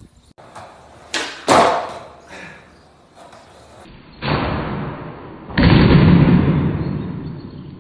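Skateboard tricks on flat ground: two sharp clacks of the board's tail popping and the deck landing, then two landings, each followed by the wheels rolling on pavement and slowly fading.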